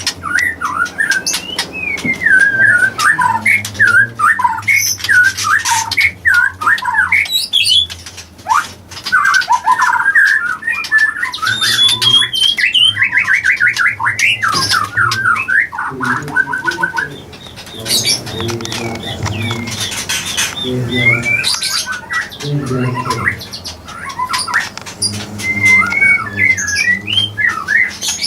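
Birds calling with quick, gliding chirps and squawks, some in fast repeated runs, with a lower sound underneath through the middle stretch.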